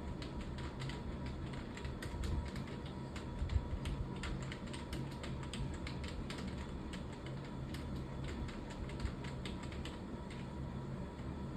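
Typing on a computer keyboard: a fast, irregular run of key clicks, several a second, over a steady low hum.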